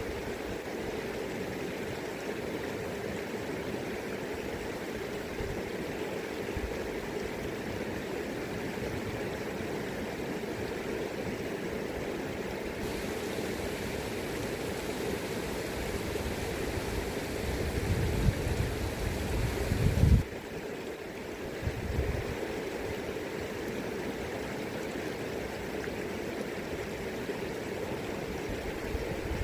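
River current rushing steadily. Low gusts of wind buffet the microphone, building from about two-thirds of the way in and cutting off suddenly, with one more short gust after.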